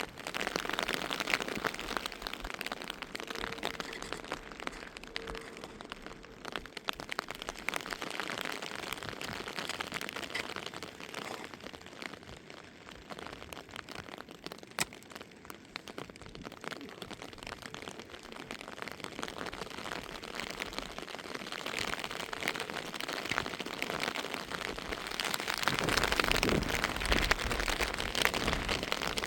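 Heavy rain falling on a surface, a steady hiss made of dense drop hits. It grows louder near the end, with a low rumble added.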